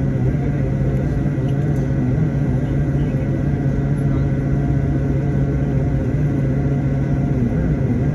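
Steady drone of an airliner's cabin noise: jet engines and airflow, an even low rumble with a constant low hum.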